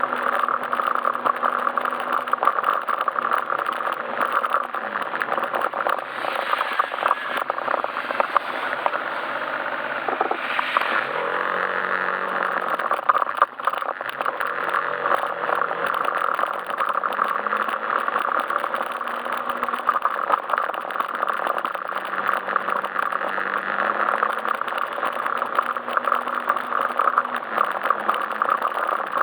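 Yamaha Majesty S scooter's single-cylinder engine running while riding, its pitch rising and falling with the throttle and dropping lower about eleven seconds in, over a steady rush of road and wind noise.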